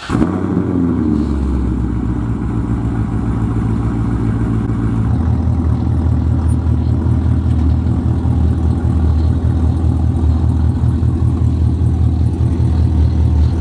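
2009 C6 Corvette's LS3 V8, breathing through Texas Speed headers and a Billy Boat exhaust, starting up with a loud flare that settles within a couple of seconds into a steady, deep idle.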